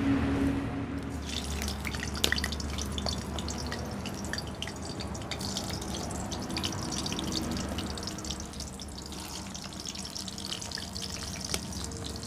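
Stuffed pointed gourds (potol) sizzling and crackling in hot oil in a steel kadai, starting about a second in as the first ones go into the oil.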